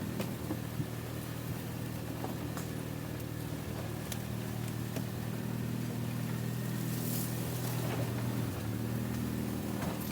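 MG Midget 1500's four-cylinder engine running steadily at low revs, rising slightly in the second half, with a few light knocks and clicks.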